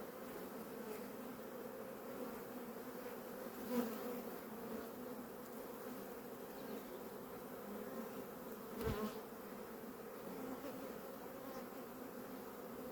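Honeybee colony humming steadily from an open hive during a frame inspection, with two light knocks, the second a dull thump about nine seconds in.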